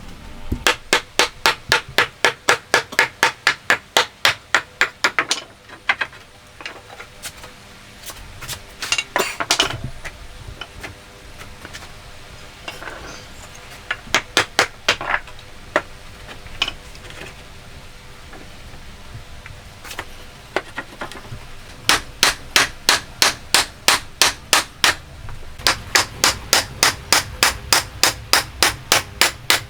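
Hammer blows in quick runs of about four strikes a second, with pauses and a few single strikes between the runs.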